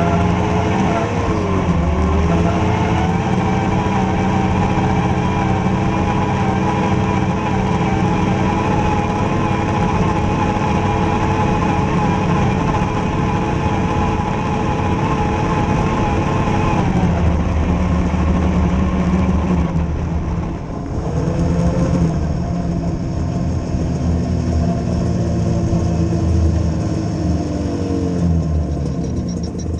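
Vehicle engine running under load at a steady pitch. It eases off about seventeen seconds in, revs up again around twenty-one seconds, and winds down near the end.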